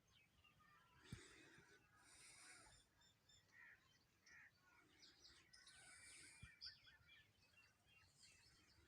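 Several wild birds chirping and calling faintly, with short whistled notes throughout and a buzzy, hissing call that comes back every few seconds. There are two soft low knocks, one about a second in and one past the middle.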